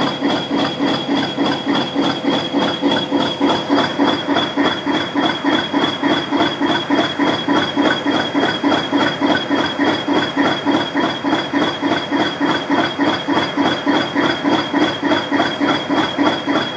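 English Electric 8SVT V8 diesel engine of a British Rail Class 20 locomotive running steadily after a cold start. It has an even beat of about four pulses a second, with a steady high whine over it.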